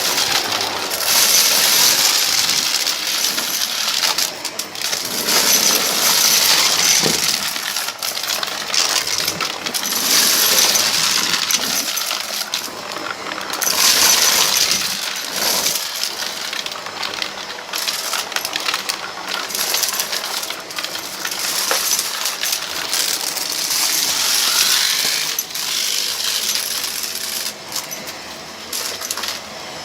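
Vacuum cleaner running over a rug strewn with a mix of small debris, the pieces rattling and clinking as they are sucked up. The sound swells and eases in strokes about every four seconds.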